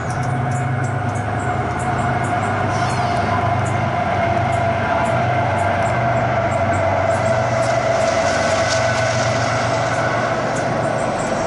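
Intermodal freight train approaching and rolling past: a steady low drone with a continuous higher squealing tone that grows louder in the second half as the trailer-carrying cars come by.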